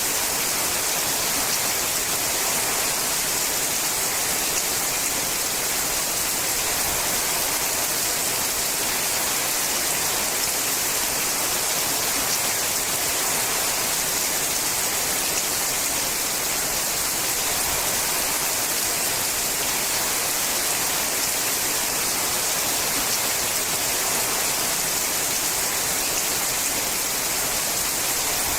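Steady rain falling on a sheet-metal roof: a dense, even hiss, strongest in the high range, with no let-up.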